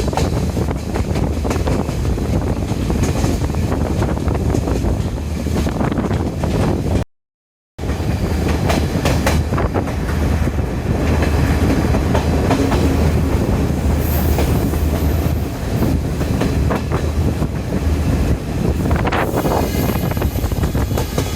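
Diesel intercity train running along the track: a steady low rumble with the wheels clicking and clattering over rail joints. The sound cuts out completely for under a second about seven seconds in.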